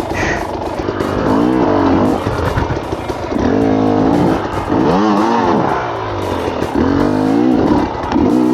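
Enduro dirt bike engine revving up and dropping back in repeated bursts, about five in a row, roughly one every second and a half.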